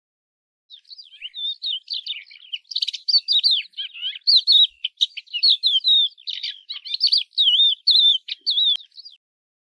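A songbird singing a long, rapid warbling song of varied twittering notes, starting about a second in and stopping shortly before the end.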